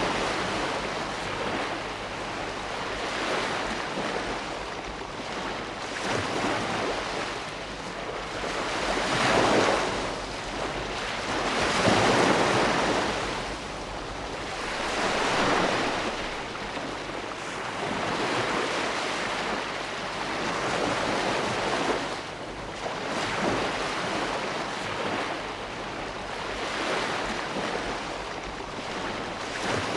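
Ocean waves breaking and washing on a shore, a steady surf hiss that swells and ebbs every few seconds, the strongest swells about a third of the way in.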